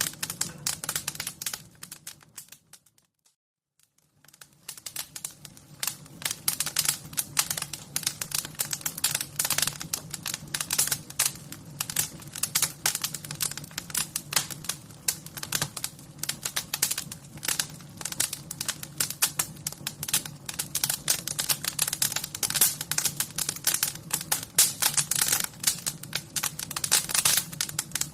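Wood fire crackling: a dense run of sharp snaps and pops over a steady low rumble. About two and a half seconds in it fades away to near silence, then comes back a second or so later and carries on.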